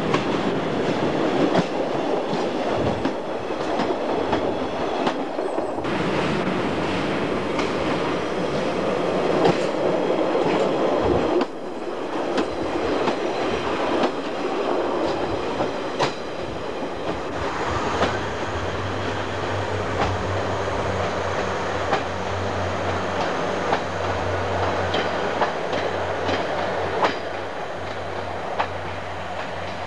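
Diesel multiple units running past close by, their wheels clattering over rail joints with many sharp clicks; the first is a Class 142 Pacer railcar coming off the bridge. After a break about a third of the way in, a steady low diesel engine drone sets in under the rail noise.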